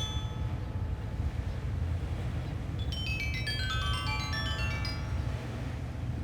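Wind rumbling low and steady, with a sanukite stone lithophone tuned in a pentatonic scale ringing over it. The last notes of one run die away, and about halfway through a new quick cascade of bright, ringing stone notes sounds.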